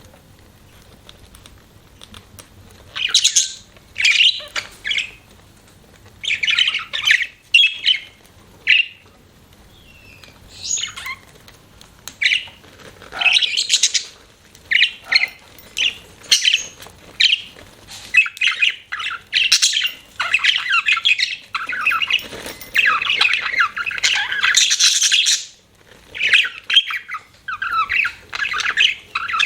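Budgerigars chirping and chattering in short bursts of rapid warbling calls, more continuous in the second half.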